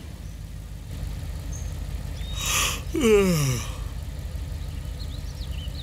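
A car engine idling low and steady. About two and a half seconds in comes a short breathy rush, then one voice sliding down in pitch like a long sigh.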